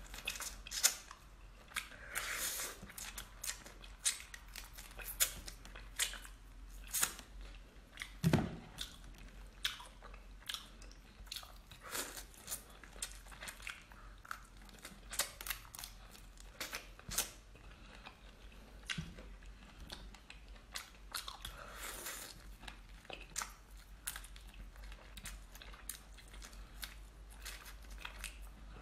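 Chewing and biting raw marinated (drunken) shrimp close to the microphone: irregular clicks and crunches of shell and flesh, at times several a second.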